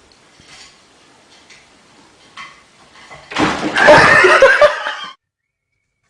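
Faint small clicks, then about three seconds in a loud vocal outburst, laughing or yelling mixed with clatter, lasting about two seconds and cutting off abruptly.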